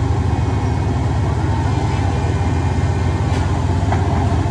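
Heavy construction machine's diesel engine running steadily, a loud, even low rumble.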